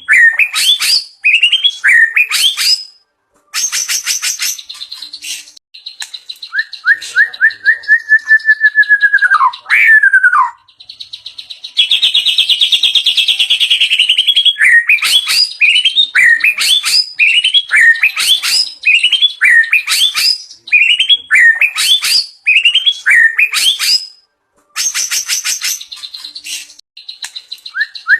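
White-rumped shama (murai batu) singing a varied song rich in learned mimicry ('isian'). It goes from runs of sharp upswept chirps to a long whistled phrase that falls away, then a dense buzzy trill near the middle, then back to quick repeated chirps.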